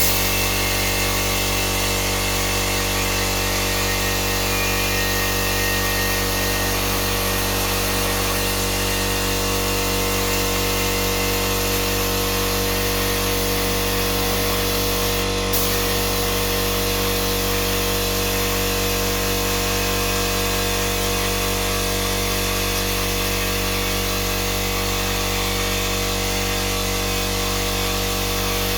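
Electric heat gun running steadily, a constant motor hum and whine that does not change, with one brief click about halfway through.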